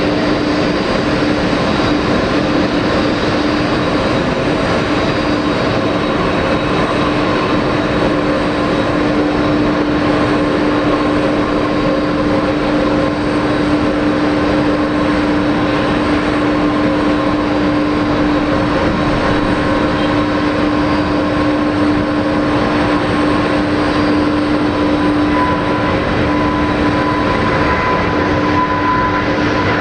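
Boeing 777-200 twin jet engines running steadily and loudly, with a strong, steady low hum and a fainter, higher whine over the roar.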